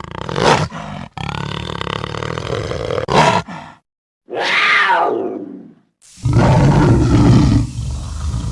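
Leopard calling: a series of four rough, growling calls separated by short breaks, the third falling in pitch.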